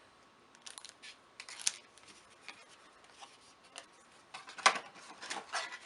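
Trading cards and the cardboard contents of a prerelease box being handled: scattered light taps, slides and rustles, with a louder cluster of clicks about four and a half seconds in.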